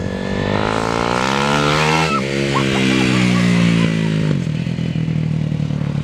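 Honda CRF250R dirt bike's single-cylinder four-stroke engine accelerating hard: the pitch climbs, drops sharply about two seconds in as it shifts up a gear, climbs again, then eases off and runs steadier after about four seconds.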